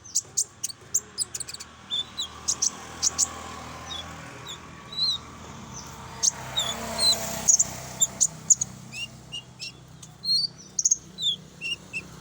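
Konin bird song played as a lure recording: a rapid, irregular string of short, high chirps and whistled notes with sharp clicky notes mixed in.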